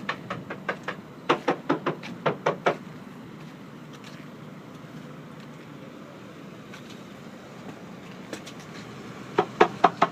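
Quick, sharp taps on a World Cat catamaran's fiberglass hull as it is sounded to check for hollow or delaminated spots. A run of about seven taps comes first, then a pause of several seconds, then another quick run near the end.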